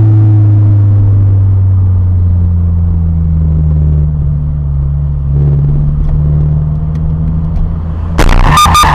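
Steady low drone of a vehicle's engine and road noise as picked up by a dash cam. About eight seconds in, a sudden loud, harsh burst cuts in.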